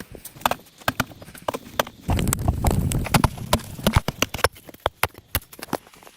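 Irregular sharp knocks and clicks, a few per second, with a low rumbling noise for over a second about two seconds in.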